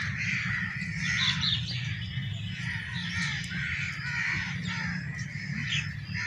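Several birds calling over and over, their short calls overlapping several times a second, over a steady low rumble.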